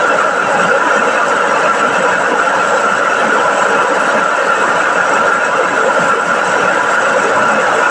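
Small electric rice milling machine running steadily, a dense whirring noise with a constant high-pitched tone in it.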